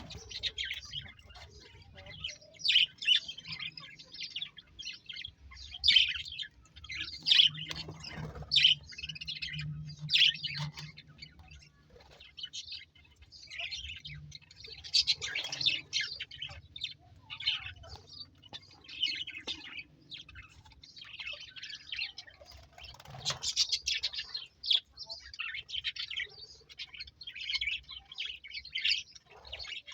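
A colony of budgerigars chirping and warbling together, many short, overlapping calls at once.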